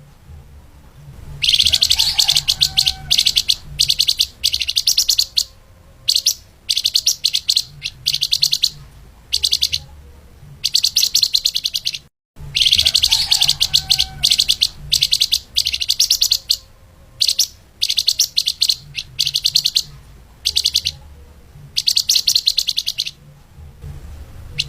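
Flamboyan (lemahan) bird singing its fast, tightly packed song: repeated bursts of very rapid, high trills with short pauses between them. About halfway through, a brief cut of silence comes and the same run of phrases starts over.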